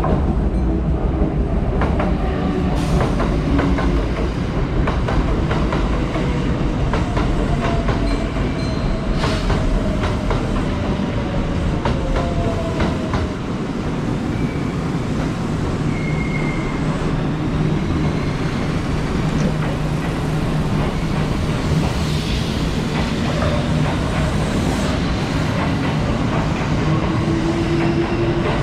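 Kintetsu electric commuter train moving along the platform, with a steady rumble of wheels on rail and repeated rail clatter. A faint whine slides down in pitch over the first dozen seconds, and another rises near the end.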